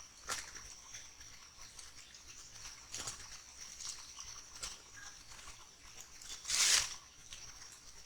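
An animal crunching or rustling in dry forest litter at night: a few short sharp crackles spaced seconds apart, then a longer, louder crunch near the end. A steady high-pitched insect tone runs underneath.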